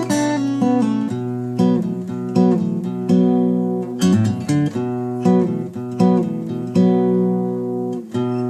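Acoustic guitar in standard tuning, capoed at the second fret, playing an instrumental tune: chords picked and strummed over a ringing bass note, a fresh chord struck about every three-quarters of a second.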